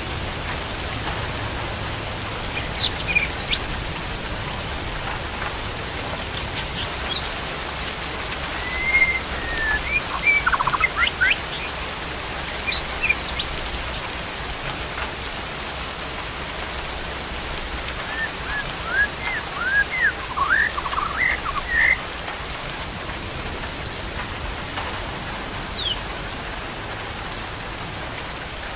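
Wild birds singing in several short bursts of quick whistled chirps and pitch glides, over a steady hiss of rain.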